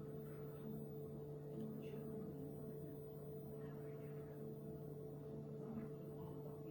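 Beko WTK104121A washing machine running on its spin and drain programme: a steady, even hum.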